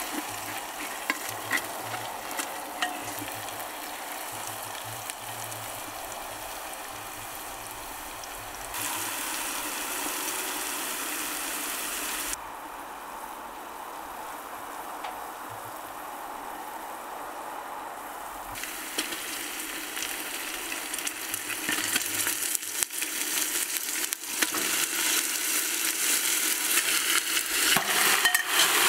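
Food frying in hot oil in a cooking pot: a steady sizzle. About two-thirds of the way through, a utensil stirring and scraping the pot adds clicks that come faster toward the end.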